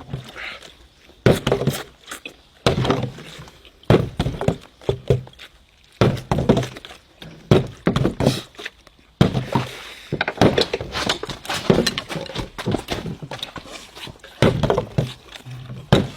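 Repeated thunks and knocks on a tabletop at irregular intervals, plastic bottles being flipped and landing or toppling.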